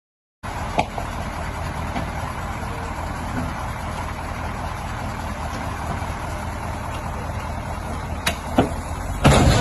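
A motor vehicle running steadily with a low hum, with a few sharp clicks, and a louder burst of noise near the end.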